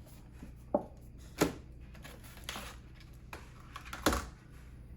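Five or so sharp clicks and knocks, irregularly spaced, as hands handle a boxed AMD Ryzen CPU and its stock cooler's packaging. They sit over a steady low hum.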